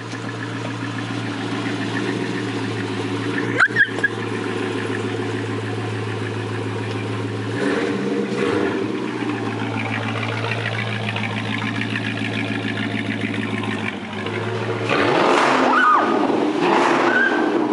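2006 Dodge Charger Daytona's 5.7-litre HEMI V8 idling steadily through a Magnaflow exhaust with the resonators deleted. It is blipped about eight seconds in and revved twice near the end, its loudest moment. A few sharp knocks come about four seconds in.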